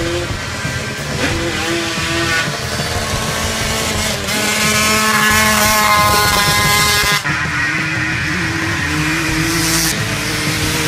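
Several racing dirt bike engines revving, their pitch climbing and dropping as they accelerate and shift gears. The loudest, highest-pitched run is in the middle, ending with a sudden drop about seven seconds in.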